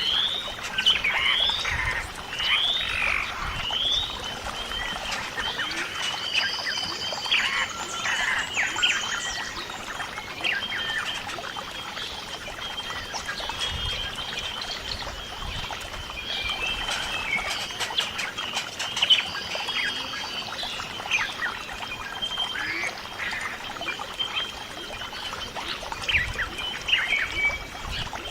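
Outdoor nature ambience: many birds chirping with quick rising calls, over a continuous high-pitched trill.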